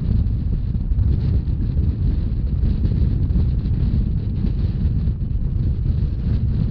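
Wind buffeting the microphone over the steady rumble of a narrow-gauge Rhaetian Railway train running along the track.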